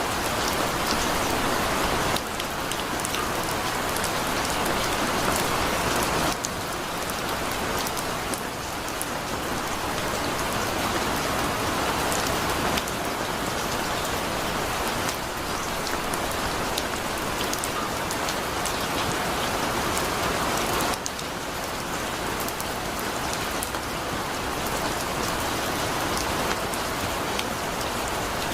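Heavy rain falling steadily: a dense, even hiss with scattered drop ticks. Its level steps up or down suddenly a few times.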